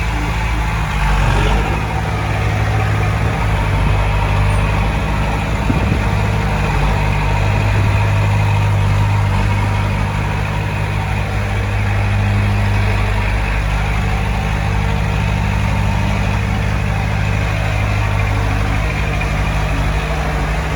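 Heavy earthmoving machinery's diesel engine running steadily, a little louder over the first half and then easing slightly.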